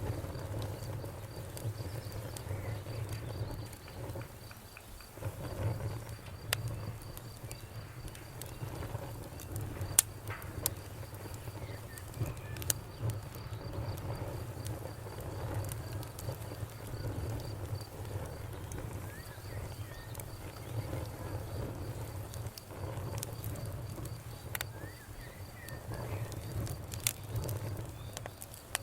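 Campfire burning with a low steady rumble and scattered sharp pops and crackles, the loudest about ten seconds in. A faint, evenly pulsing insect trill runs high in the background.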